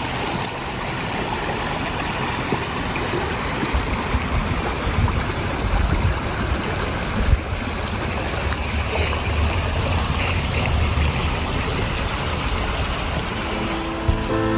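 Shallow desert-canyon stream trickling and running steadily.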